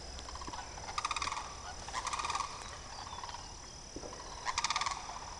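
A bird calling three times, each call a short, rapid rattling series of notes.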